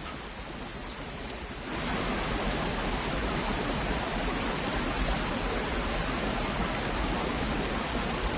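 Rushing river water and waterfall, a steady rush of noise that gets louder about two seconds in.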